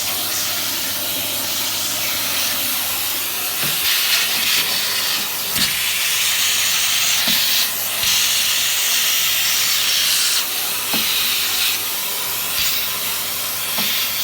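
Dyson CY28 cylinder vacuum cleaner running with its crevice tool, a steady rushing hiss that grows louder for a few seconds at a time as the nozzle is moved over the floor. A few small knocks are heard along the way.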